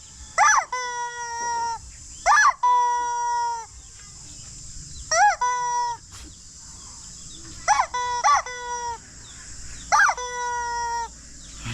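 Rubber chicken toy squeezed about five times at a steady pace. Each squeeze gives a short bending squeal, then a flat, high, held note of about a second.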